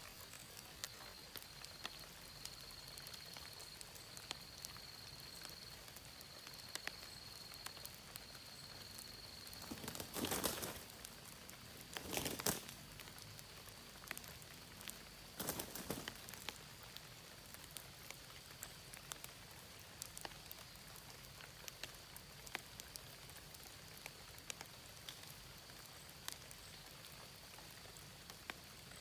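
Faint dripping and pattering of rainwater, many small scattered drops, under a thin steady high-pitched whine. Three louder noisy bursts break in about ten, twelve and fifteen and a half seconds in.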